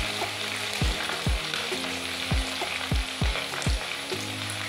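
Hot oil sizzling steadily as chopped ginger, garlic and green chillies fry in an iron kadai, stirred with a wooden spatula. A series of short low thuds comes roughly every half second.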